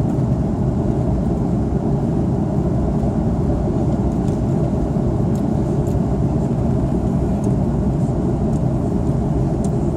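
Steady cabin noise inside an Airbus A330-300 airliner in flight: an even, unbroken low roar of engines and rushing air.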